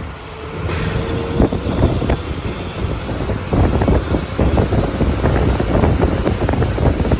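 Vehicle travelling along a rough road, with a steady low rumble, wind buffeting the microphone, and frequent knocks and rattles that grow busier after a few seconds.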